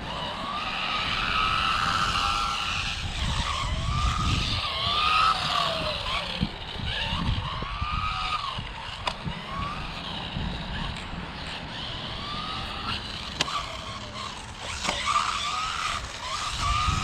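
Rlaarlo AMX12 1/12-scale electric RC buggy, on its stock 2S battery with speed gearing, being driven hard. Its motor whine rises and falls again and again with the throttle over a steady tyre-and-gravel hiss, with a few sharp knocks.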